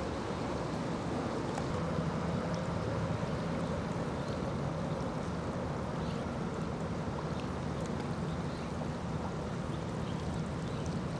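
Steady rush of floodwater flowing from a broken water main, with a low engine hum underneath and a few faint ticks.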